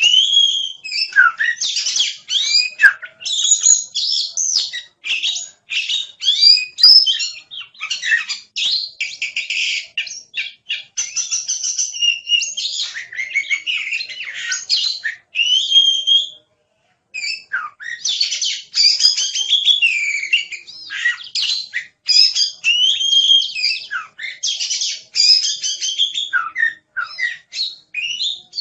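Oriental magpie-robin (kacer) singing continuously in full song: a rapid, varied stream of whistles, sweeping notes, trills and chattering phrases, with one break of about a second just past the middle.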